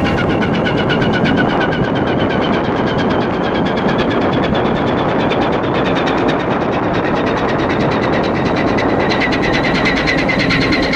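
Cargo ship's diesel engine running steadily: a loud, fast, even pulse with a high whine above it that rises slightly near the end.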